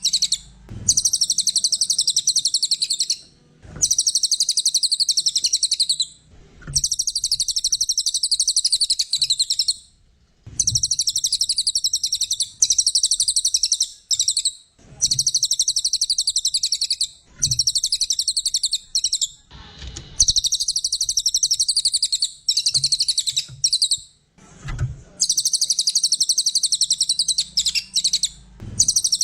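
Cililin coklat songbird singing long, rapid, high-pitched twittering phrases of a few seconds each, broken by short pauses.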